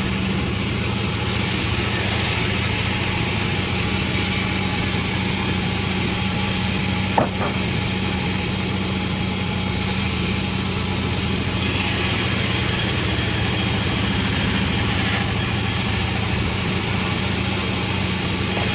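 Sawmill machinery running steadily with an engine-like hum, and a single sharp click about seven seconds in.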